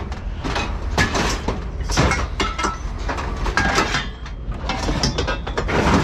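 Scrap auto parts clanking and clattering as they are thrown out onto a scrap pile: many metal impacts in quick, irregular succession over a steady low rumble.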